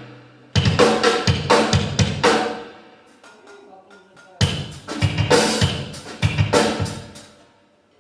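Live drum kit played in two short bursts of bass drum, snare and cymbal hits, the cymbals ringing out after each burst, with a lull in between. These are loose fills before the set begins, a drummer warming up or checking the kit.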